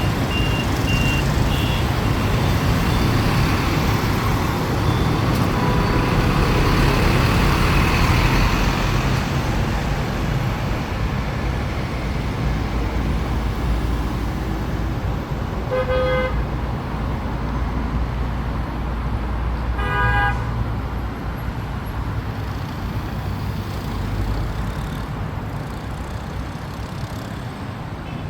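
Road traffic running steadily, with vehicles passing. Two short car horn toots come a few seconds apart, past the middle.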